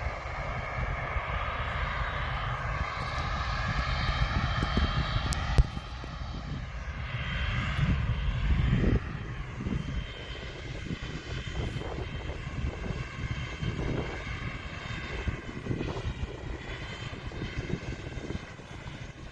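Military jet engines running on the ground, a whine of several steady high tones over a low rumble, shifting slightly in pitch. There is a brief sharp knock about five seconds in.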